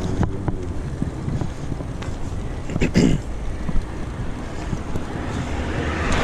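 Wind buffeting the microphone during a bike ride, a steady low rumble, with a short clatter about halfway through.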